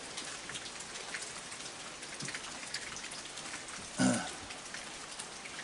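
Heavy rain falling steadily, a dense hiss of many small drop ticks. About four seconds in there is one brief, louder low sound.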